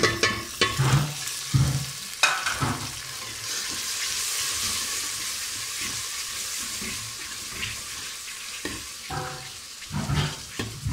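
Chopped tomatoes frying in hot ghee in a metal cooking pot, sizzling steadily, as a ladle stirs them with knocks and scrapes against the pot in the first few seconds and again near the end.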